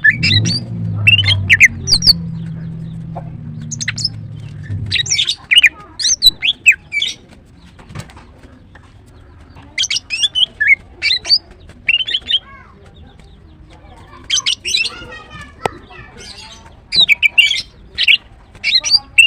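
Female greater green leafbird calling in quick clusters of sharp, sliding chirps and squawks, with a short pause in the middle. A low steady hum runs under the first five seconds and then stops.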